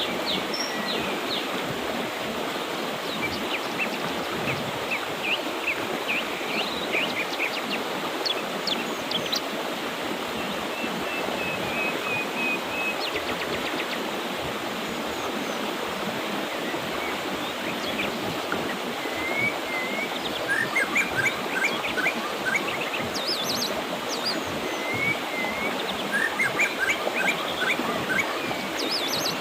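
Mountain river flowing in a steady rush, with birds chirping over it; the chirping grows busier in the last third.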